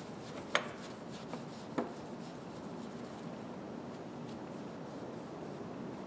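Grooved pliers' handle grips being rubbed clean by hand, a soft steady scrubbing with two light clicks, about half a second and nearly two seconds in.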